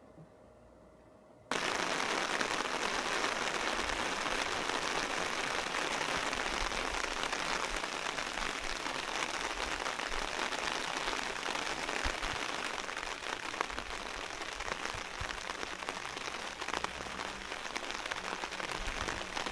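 Heavy rain falling steadily. It comes in suddenly about a second and a half in, after a near-quiet moment.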